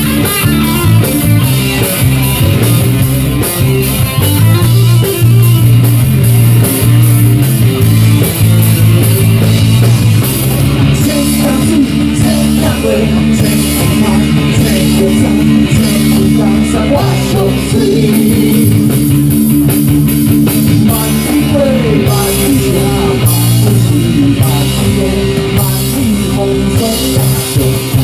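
Live rock band playing an instrumental passage: electric guitar and bass holding chords over a drum kit, with cymbal hits coming in about a third of the way through.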